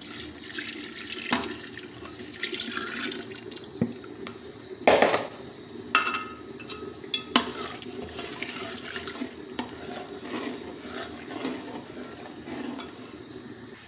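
Flour-and-water slurry poured into a pot of simmering nihari and stirred in, with a spoon knocking against the pot several times; the loudest knock comes about five seconds in. A steady low hum runs underneath.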